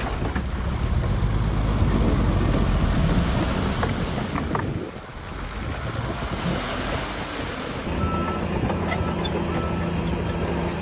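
Heavy diesel earthmoving machinery running, with a brief drop in level about five seconds in and a steadier engine hum from about eight seconds on.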